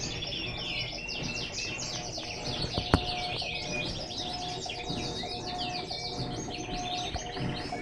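Many small birds chirping continuously in a dense, rapid chatter, with a single sharp click about three seconds in.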